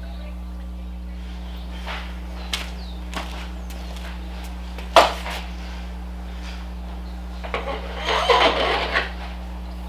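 Tools and metal parts being handled during dirt bike suspension work: scattered clicks, a sharp knock about five seconds in and a burst of rattling near the end, over a steady low hum.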